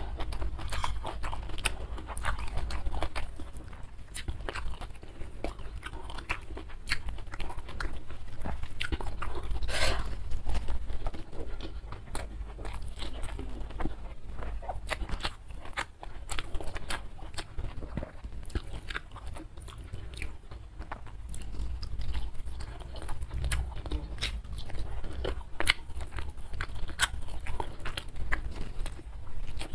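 A person chewing and biting rice and side dishes eaten by hand, picked up close on a clip-on microphone: a steady run of short mouth clicks and smacks, with one longer, louder noise about ten seconds in.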